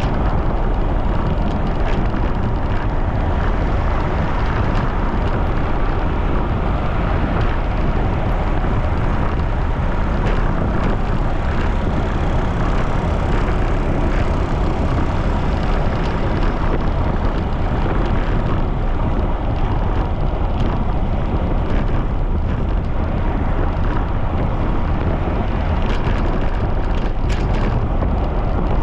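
Strong wind buffeting the microphone of a camera on a moving bicycle: a steady, loud low rumble with hiss above it.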